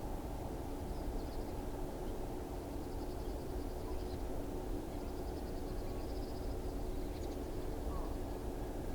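Steady low rumbling noise, with faint, high, rapidly pulsing trills four times over from a small calling animal.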